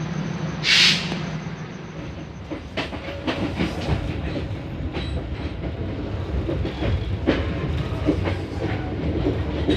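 Passenger train carriage in motion: wheels clattering and knocking irregularly over the rail joints above a steady low rumble. About a second in, there is a short loud hiss.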